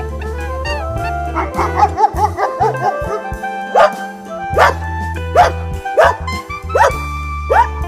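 A dog barking over background music: a run of quick short yips, then single barks repeated about every three-quarters of a second.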